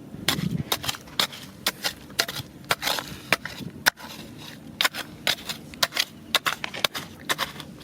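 Irregular sharp clacks and knocks of stones striking stone, about two or three a second, as rocky riverbed gravel is dug through.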